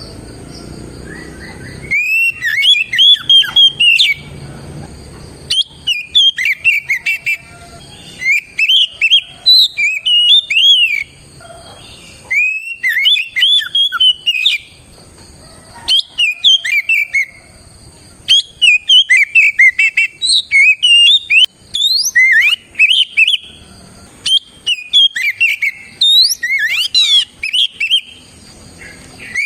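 Oriental magpie-robin (kacer) singing loudly in full song: bursts of fast, varied whistled phrases a second or two long, broken by short pauses. A faint steady high whine runs underneath.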